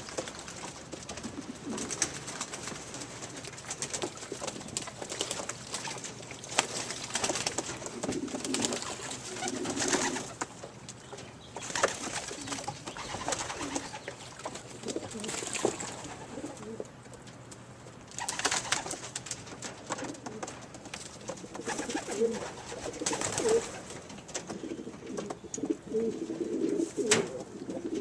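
Racing pigeons cooing again and again, with short noisy bursts of rustling now and then.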